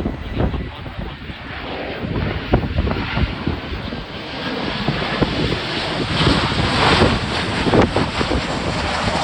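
Jet airliner on approach to land, its engine rush building to a peak about two-thirds of the way through, with wind buffeting the microphone.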